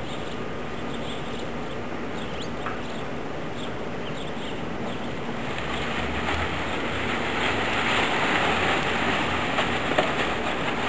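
Honeybee swarm buzzing as a steady rushing hum that grows louder about halfway through, the swarm being stirred up as the bag goes over it. A few short bird chirps come early on.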